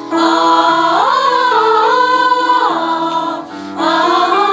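Music: a children's choir song with its accompaniment, a melody line gliding over held chords, with a short dip in loudness about three and a half seconds in.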